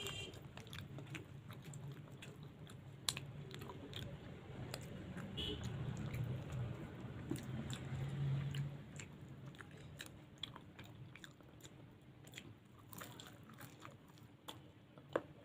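A person chewing and biting luchi with potato curry close to the microphone: wet mouth sounds with scattered sharp clicks, strongest in the middle.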